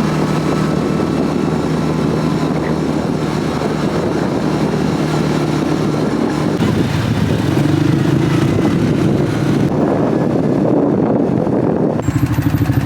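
ATV engine running while riding, a steady drone that shifts pitch about halfway through as the throttle changes.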